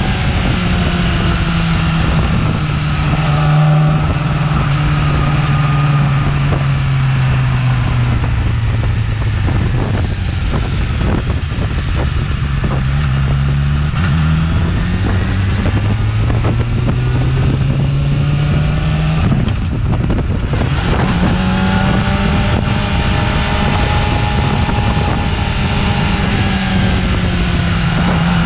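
Yamaha R6's inline-four engine with its stock exhaust, running with its note slowly falling, then climbing. There is a short break about twenty seconds in, after which the note climbs again.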